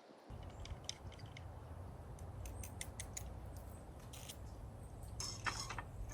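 Scattered sharp clicks and light ticking over a steady low rumble, with a denser cluster of clicks near the end.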